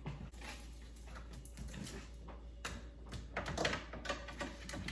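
Scattered light clicks and knocks of things being handled while a refrigerator is cleaned out, coming more often in the second half.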